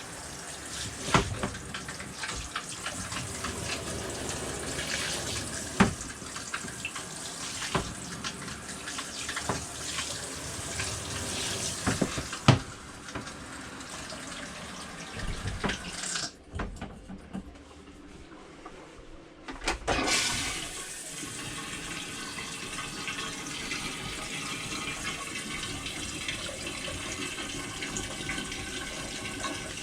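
Travel trailer faucet running open with a steady hiss of water, flushing antifreeze out of the fresh-water lines, with a few sharp knocks in the first half and a brief drop in the flow sound about two-thirds through.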